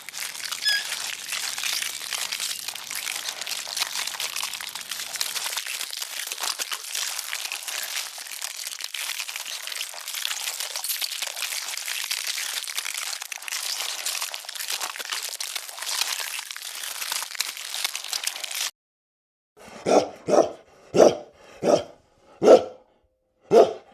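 A steady, crackling hiss that cuts off abruptly about three-quarters of the way in. After it, a dog barks six times in quick succession over about four seconds; the barks are the loudest sounds.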